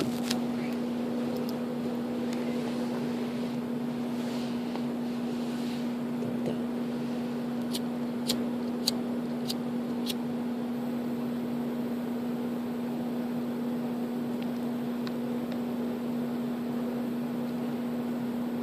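A steady mechanical hum holding one even pitch, with a few sharp clicks about eight to ten seconds in.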